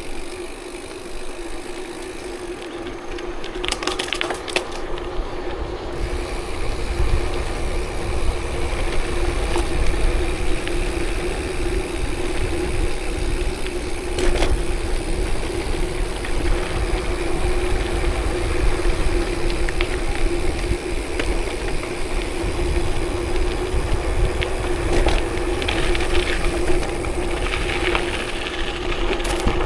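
Steady running noise of a ride along an unpaved forest road: tyres rolling over the gravel surface with a low rumble, a constant hum and occasional rattles.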